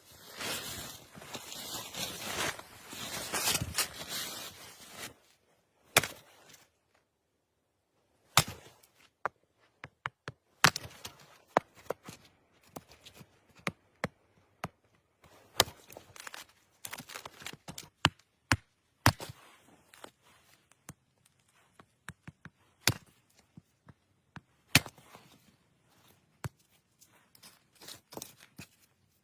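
About five seconds of steady rustling and crunching, then a run of sharp, irregular knocks and clicks, some louder than others, with short quiet gaps between them.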